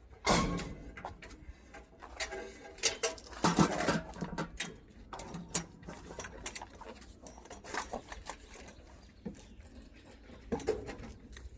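Small metal scrap being handled and sorted: irregular clinks, rattles and knocks, with the loudest knock just after the start and another cluster about three and a half seconds in.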